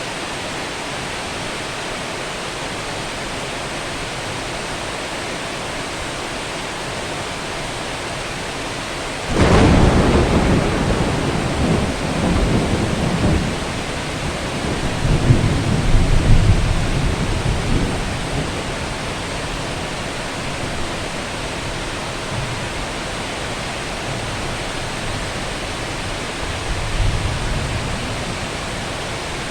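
Heavy rain falling with a steady hiss, broken about nine seconds in by a sudden thunderclap that rolls into long low rumbling, swelling again a few seconds later and once more, fainter, near the end.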